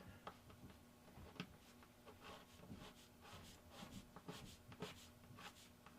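Faint, light scratchy strokes of a small white-metal casting being rubbed against a fine file, filing off casting flash. The strokes come irregularly, several a second at times.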